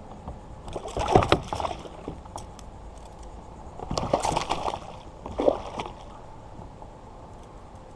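Water splashing in three short bursts, about a second in, around four seconds in and again just after: a small hooked tarpon thrashing at the surface beside the kayak.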